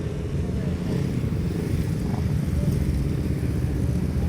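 Racing motorcycle engines at a race circuit, a steady low rumble with faint pitch glides rising and falling above it.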